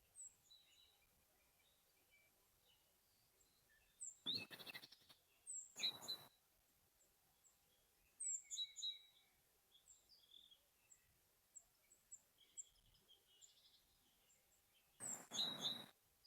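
Forest birds chirping and twittering in short high calls and whistles, several at once. Three louder rustling bursts stand out over the calls, about 4 s in, about 6 s in and near the end.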